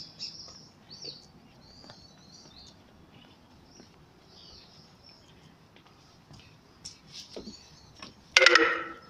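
Small birds chirping faintly in the surrounding trees. Near the end comes one loud, sudden clang that rings for under a second, the loudest sound here.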